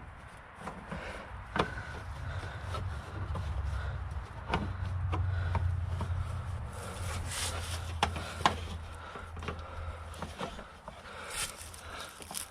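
Scattered clicks and taps of a screwdriver working the plastic vent or trim fasteners on a van's front end, over a low hum that swells in the middle and fades.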